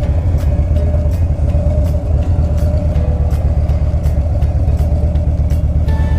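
Harley-Davidson Twin Cam 103 V-twin of a 2015 Dyna Street Bob running through an aftermarket Fab28 exhaust, a steady deep rumble.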